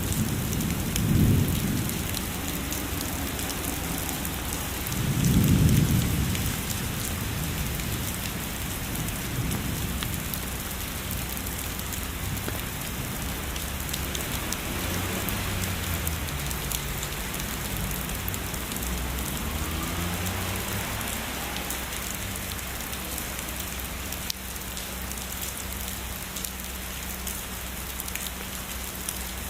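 Steady heavy rain falling on a surface, with distant thunder rumbling low beneath it. There is a short rumble about a second in and a louder one around six seconds in, then fainter rolling rumbles that die away in the second half.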